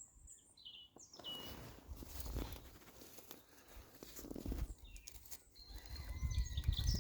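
Birds chirping in woodland, with a few short high calls near the start and thin whistled notes later, over rustling and a low rumble.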